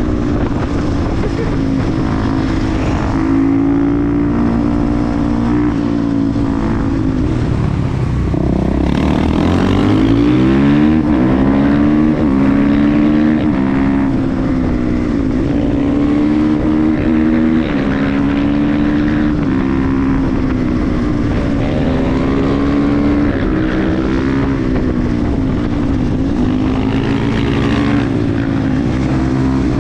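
KTM 350 EXC-F supermoto's single-cylinder four-stroke engine under way, its pitch rising and falling as the rider works the throttle and gears, with one long rising run of revs about ten seconds in.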